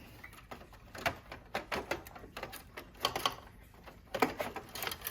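Irregular clicks, taps and rattles of plastic and metal parts being handled as the main board is pulled out of an inkjet printer.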